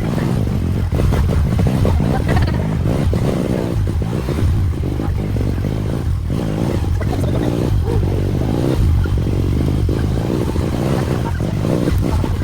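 Motorcycle engine running under way over a rough road, with many short rattles and knocks from the bike throughout.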